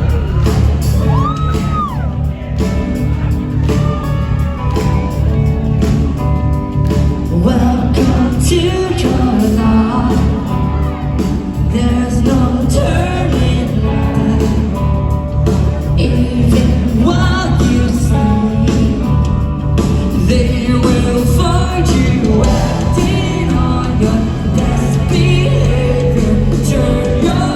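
A live rock band playing loudly, with a sung vocal line over heavy bass and drums, heard in a large hall.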